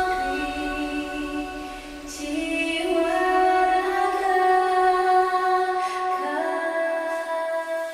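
Music with sustained female singing in long held notes, the pitch shifting every couple of seconds, fading out near the end.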